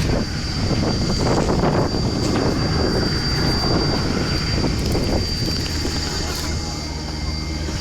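An engine running steadily, with a thin high whine held throughout and irregular clattering for about the first five seconds, which then eases.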